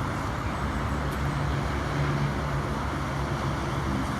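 Steady roar of distant highway traffic, with a faint engine hum rising out of it for a second or so near the middle.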